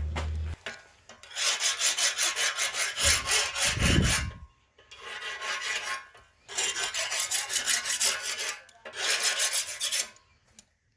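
A file scraped in about four long passes across a freshly oil-quenched carbon-steel knife blade: a hardness check after the quench.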